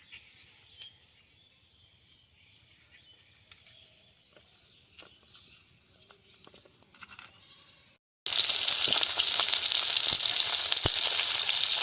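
Faint handling sounds with a few light clicks, then about eight seconds in a sudden loud sizzle of rohu fish heads frying in hot mustard oil in an iron kadai.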